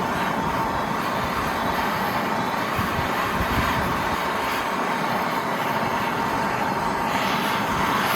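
Gas torch burning with a steady, continuous hiss while heating a slit steel rod end to cherry red.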